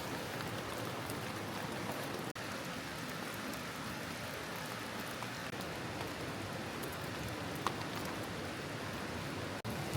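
Steady rain falling, an even hiss, broken by two very brief dropouts, about two and a half seconds in and near the end, with a single small tick in between.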